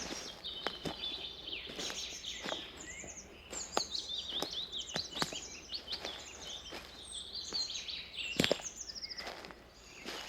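Several forest songbirds singing over one another in quick, chirping phrases and trills, with footsteps along a forest path; one step about eight seconds in is the loudest sound.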